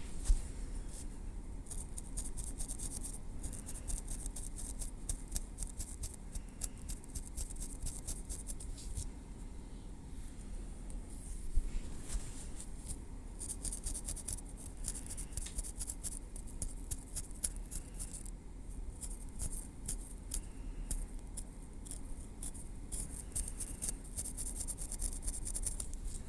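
Metal tweezers working through hair against the scalp: fast, fine, high-pitched clicking and ticking in two long runs, with a pause of a few seconds in the middle.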